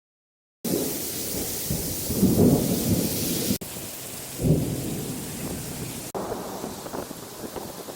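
Heavy rain hissing down with rolling thunder: a low rumble building about two seconds in and a sharper crack of thunder about four and a half seconds in. The sound starts after a brief silence and has abrupt cuts between clips.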